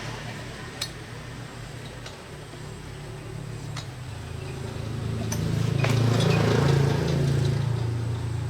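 A motor runs with a steady low hum that builds to its loudest about six seconds in and then eases off, with a few light metallic clinks.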